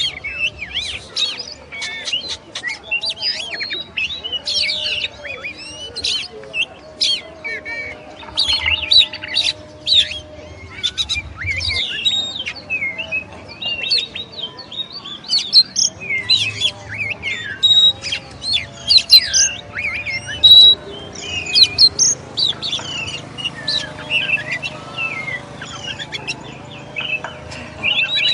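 Oriental magpie-robin (kacer) singing a continuous, fast and varied song of whistled glides, chirps and sharp clicking notes.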